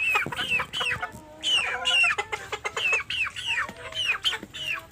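A flock of native chickens calling: many short, high, falling chirps and peeps, several a second, mixed with clucks and short sharp ticks.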